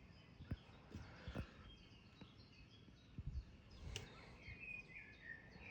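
Near silence outdoors, with faint short bird chirps, mostly in the second half, and a few soft clicks.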